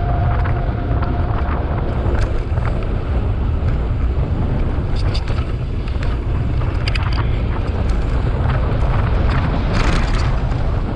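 Wind buffeting the microphone of a camera riding on a mountain bike, over a steady low rumble from the tyres on the trail, with scattered clicks and rattles from the bike.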